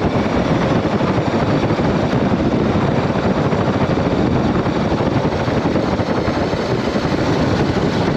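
BMW G310GS single-cylinder engine running steadily as the motorcycle rides along, mixed with rumbling wind noise on the microphone.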